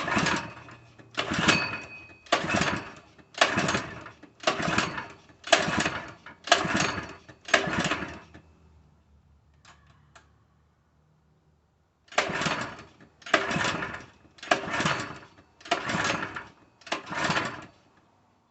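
Recoil starter of a 3 HP Harbor Freight four-stroke small engine being pulled over and over with the choke on, the engine turning over without catching: about eight pulls a second apart, a pause, then five more. It does not fire; the owner takes it for a fuel delivery problem.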